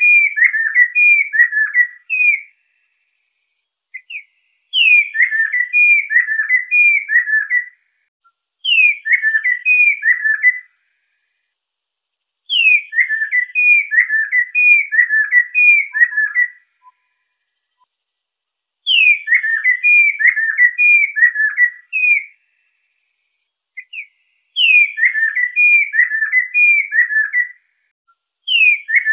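Lesser necklaced laughingthrush (poksai lesser) singing: repeated phrases of five to seven loud whistled, down-slurred notes, each phrase opening with a higher sweeping note, separated by short pauses, with faint high chatter above.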